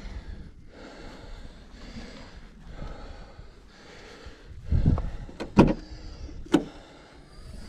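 Bicycle on the move: a steady hiss of tyres and wind, with a low rumbling thump about five seconds in and two sharp knocks soon after, as the bike jolts over the rough surface.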